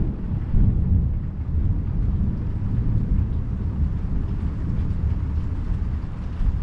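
Long rolling thunder rumbling on without a break, heard from inside an RV, over steady rain.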